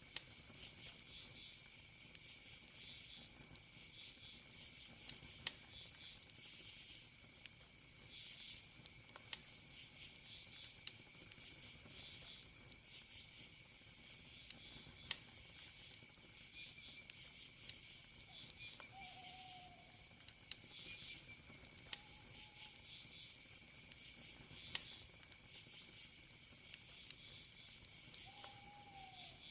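Faint campfire crackling, sharp pops scattered through, over crickets chirping in pulses every second or two and a steady high insect trill. Three short falling calls sound in the second half.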